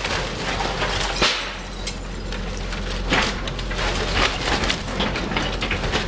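Wood cracking and splintering in repeated sharp snaps as a fire-damaged building is torn down, the sharpest crack about a second in, over the steady low rumble of demolition machinery.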